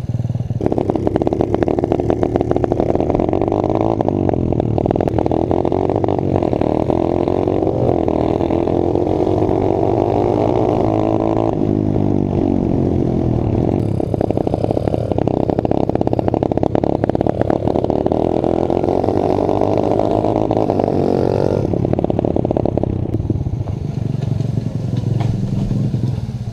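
Pit bike engine revving hard as it is ridden uphill. The pitch climbs steadily, drops sharply a little before halfway, climbs again, then eases off and fades near the end.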